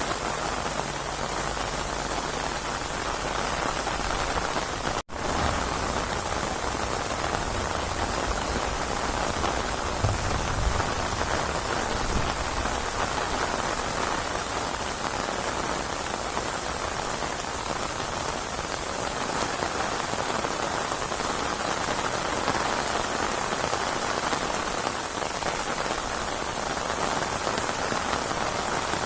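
Steady, heavy rain falling on surfaces, an even hiss of drops. About five seconds in, the sound cuts out for an instant, like an edit splice, and a few low rumbles follow over the next several seconds.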